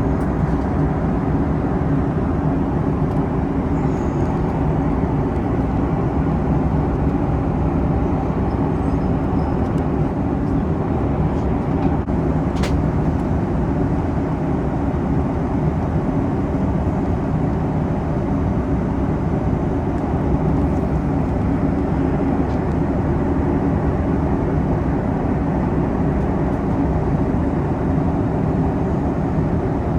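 Steady cabin noise inside a Boeing 737 MAX in flight: an even, low engine and airflow rumble. A single brief click comes about twelve seconds in.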